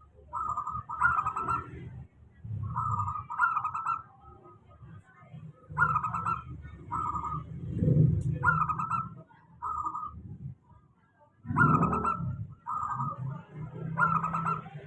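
Zebra dove (perkutut) singing, repeating its short phrases of quick cooing notes with brief pauses in between, over a low rumbling noise.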